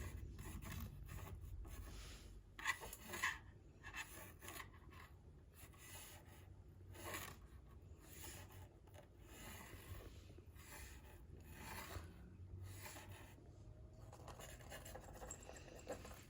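Scattered light scratching, scraping and rubbing noises with a few soft knocks, from a cat playing with a thrown toy. Two sharper knocks come about three seconds in.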